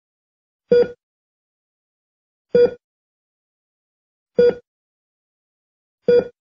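A short, identical pitched blip repeating four times, about every 1.8 seconds, with dead silence between: a looped electronic sound effect or beat.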